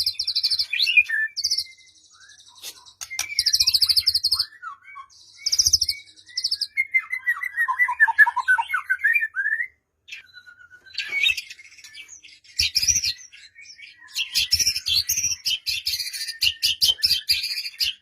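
White-rumped shama (murai batu) singing: fast buzzy rattling phrases alternate with short whistled notes and a warbling trill, ending in a dense run of rattles.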